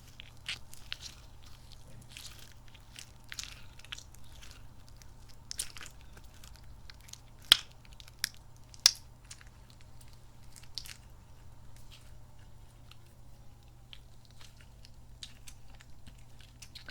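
Soft squishy kidney-bean toy squeezed and handled close to the microphone, giving sticky, squelchy crackles and clicks, with three sharper snaps a little past the middle.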